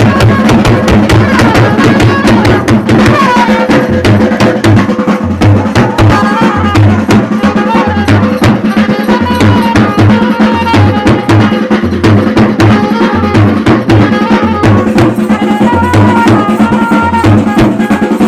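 Traditional Chhattisgarhi baja band playing Gauri Gaura festival music: fast, dense drumming with a pulsing low beat and a high, wavering melody over it.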